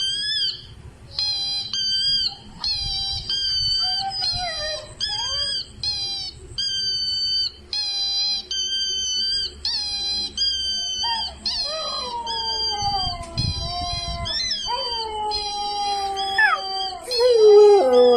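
A run of short, high-pitched squealing calls repeats about once or twice a second. From about twelve seconds in, a husky howls in long notes that slide down in pitch, and the howls grow louder near the end.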